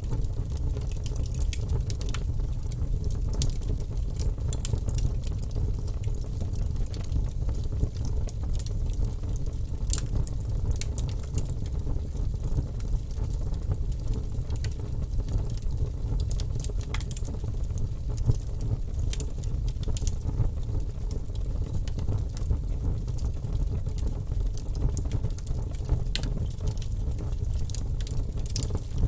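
Wood fire burning in a fireplace: a steady low rumble of flames under irregular sharp crackles and pops.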